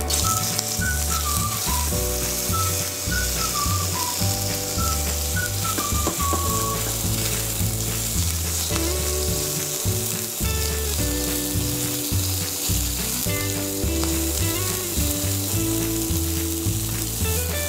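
Pieces of squid and pork sizzling in hot oil in a small nonstick frying pan, the hiss starting as they are dropped in. A steady background music track with a repeating bass line plays over it.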